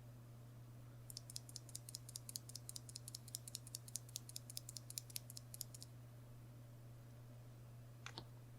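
Typing on a GergoPlex keyboard with lubed Kailh Choc Red low-profile linear switches and Choc keycaps: a quick run of light key clicks lasting about four and a half seconds, then two more keystrokes near the end. A steady low hum sits underneath.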